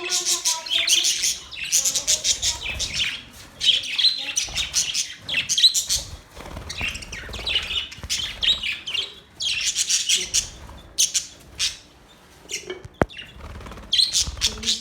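Budgerigars chattering and warbling, with rapid high chirps coming in bursts and one sharp click about thirteen seconds in.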